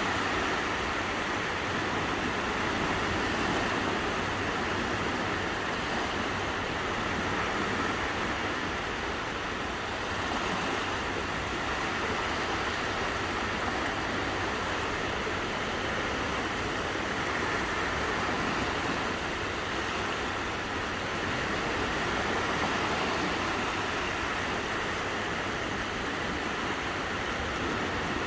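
Calm sea with small waves washing onto a sandy beach, a steady wash of surf that swells and eases gently every several seconds, with wind.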